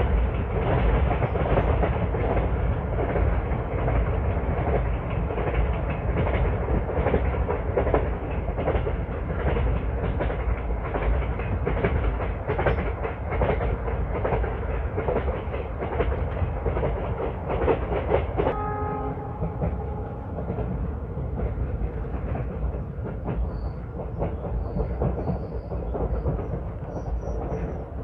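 Passenger train running on the rails, heard from aboard: a steady rumble of the wheels with repeated clicks over the rail joints. About two-thirds through, a brief pitched tone sounds and the running noise becomes a little quieter.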